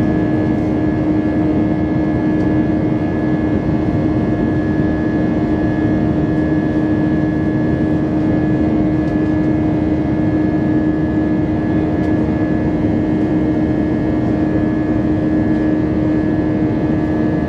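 Airbus A320 engine and airflow noise heard from inside the passenger cabin: a steady, unchanging drone with a constant hum running through it.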